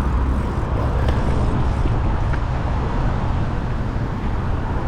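Steady road traffic noise from cars on a busy street, mixed with low wind rumble on the microphone of a moving bicycle.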